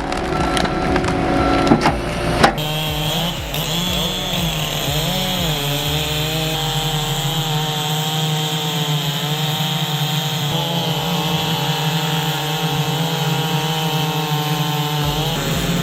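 Logs being worked by a firewood processor's saw and splitter, with sharp wooden knocks and clatter for the first couple of seconds. Then the sound changes abruptly to a steady engine-driven saw running, briefly wavering in pitch.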